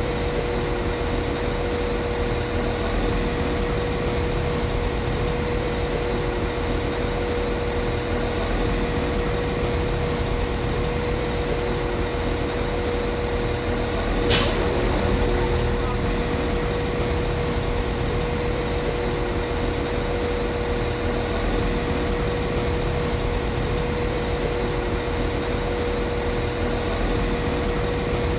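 Class 195 CAF Civity diesel multiple unit's diesel engine idling steadily, with a constant hum. A single sharp click about halfway through, followed by a short hiss.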